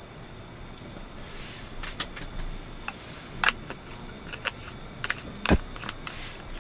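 Irregular sharp clicks and light knocks over a steady background hiss, starting about a second in; the loudest is a single sharp knock about five and a half seconds in.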